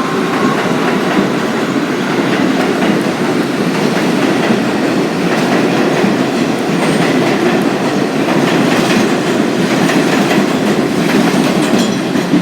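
R62A subway train running along the track at close range: a steady rail rumble with wheels clicking over rail joints, the clicks more frequent near the end.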